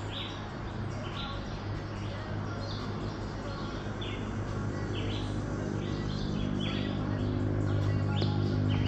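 A bird calling over and over in short falling chirps, a little more than one a second. Under it runs the chairlift's low steady hum, which grows louder toward the end.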